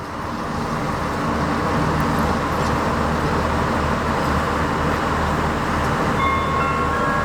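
Steady low rumble of a diesel railcar in the station, with a pulsing hum. Near the end an electronic multi-note PA chime begins, the kind that comes before a platform announcement.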